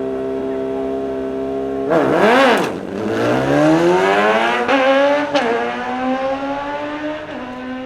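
Drag race car engine held at steady revs, then launching and pulling hard, its pitch climbing through the gears with sudden drops at each shift, fading as the car goes away down the strip.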